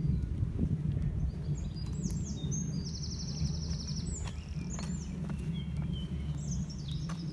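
A small songbird singing: a run of high notes with a fast trill in the middle, starting about a second and a half in, over a steady low outdoor rumble.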